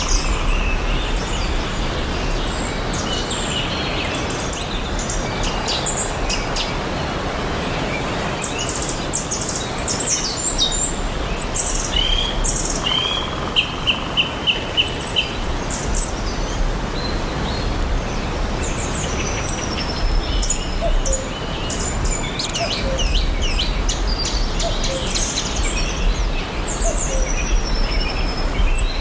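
Several songbirds chirping and singing over a steady background hiss. About halfway through, one bird gives a quick run of about six repeated notes, and later come a few falling whistles.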